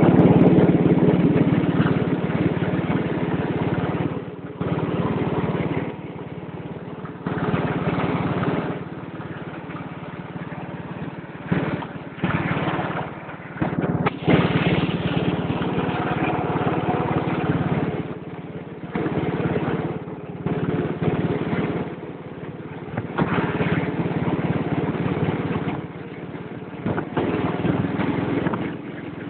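Engine of an ATCO ride-on garden tractor running, its level rising and falling every few seconds.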